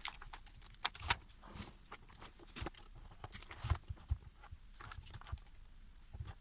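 A loose 1/4 inch pitch saw chain being handled and fitted onto a guide bar, its metal links clinking and rattling in many small irregular clicks.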